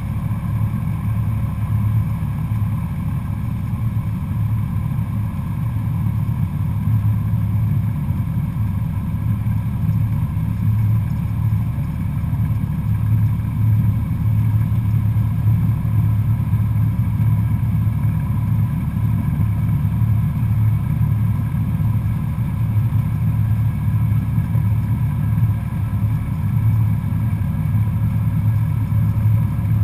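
Cessna 172SP's four-cylinder Lycoming engine and propeller running steadily, heard from inside the cockpit. It gives a constant low drone with no change in pitch.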